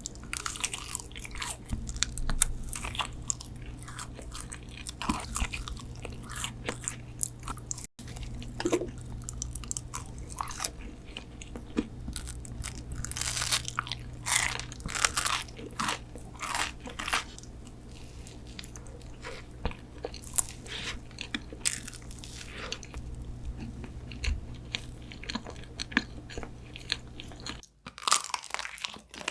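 Close-miked eating: irregular crunching bites and chewing of a crisp dessert, with a steady low hum underneath.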